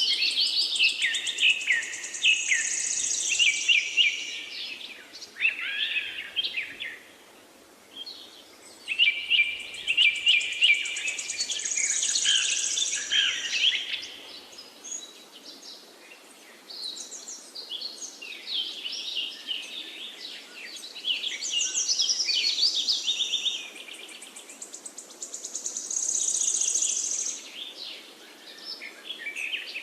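Songbirds singing rapid, high, warbling phrases in long bursts, with brief lulls about seven seconds in and again around fifteen seconds, over a faint steady background hiss.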